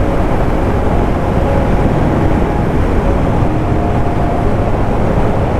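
Suzuki motorcycle riding at speed on a gravel road: a steady, loud rush of wind and road noise with the engine's drone under it.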